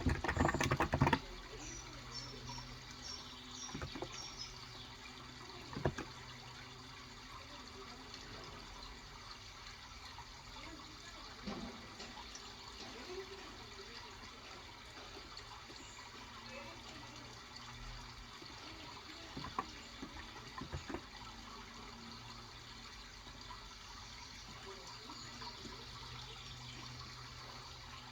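Steady trickling water throughout. A quick burst of keystrokes on a Cox Endeavor electro-capacitive 35g keyboard comes at the start, with a few single key presses later. A short run of bird chirps comes a couple of seconds in.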